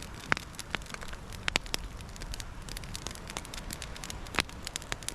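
Wood campfire crackling, with irregular sharp pops over a steady low hiss of burning.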